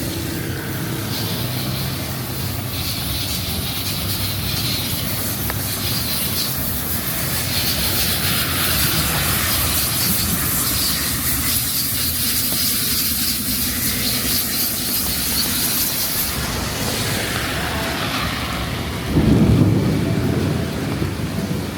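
Heavy rain hissing steadily, with motor traffic rumbling by on wet road. A louder, deeper vehicle rumble swells up close about nineteen seconds in.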